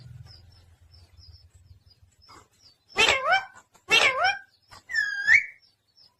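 Pet parrot calling: three sharp squawk-like calls about a second apart, starting about three seconds in, the third a higher call that dips and rises in pitch.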